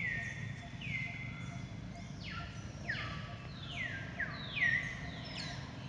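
A bird calling over and over in a string of clear whistles, each sliding down in pitch, about one a second with some overlapping, over a steady low hum.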